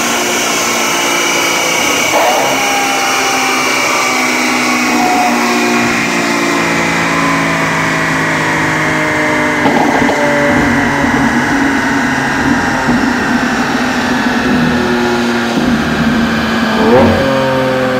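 Lamborghini Aventador LP700-4's 6.5-litre V12 running on a chassis dynamometer alongside the dyno's cooling fans, its pitch falling slowly and steadily. Brief blips about two seconds in and about ten seconds in, and a short rise in revs near the end.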